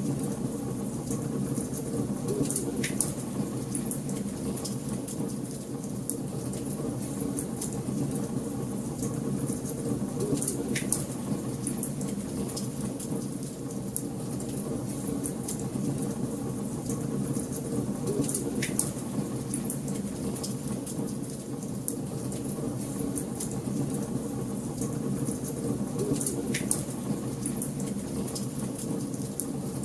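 Wood fire burning in a fireplace: a steady crackle and hiss of flames, with a sharper pop about every eight seconds.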